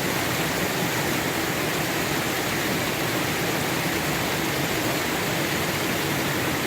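A forest stream running, a steady rush of water that does not change.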